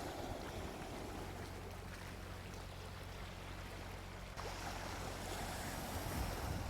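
Gentle ocean waves washing onto a beach, a steady rushing surf with a fresh wave surging in a little past the middle.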